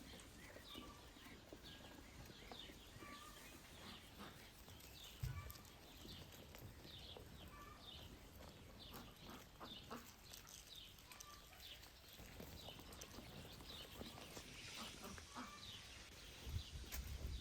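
Faint outdoor ambience of small birds chirping again and again, with a single soft thump about five seconds in and low rumbling starting near the end.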